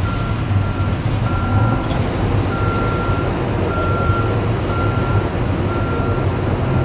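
Backup alarm on a loader, beeping about once a second while it reverses, over the steady running of its diesel engine.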